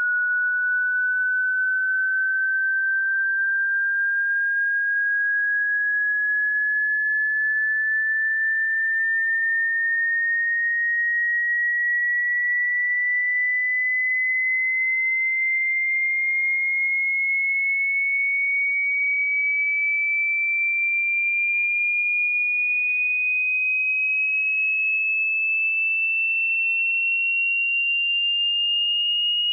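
A single pure electronic tone, high-pitched and steady in loudness, rising slowly and evenly in pitch throughout.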